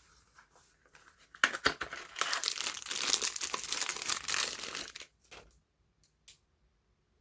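A packaging wrapper being crinkled and torn open by hand. It is a dense crackling run of about three and a half seconds that opens with a couple of sharp snaps, followed by a few scattered clicks.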